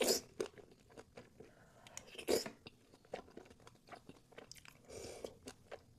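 A person biting and chewing food: a few crunchy bites at the start and about two seconds in, then soft, scattered chewing clicks.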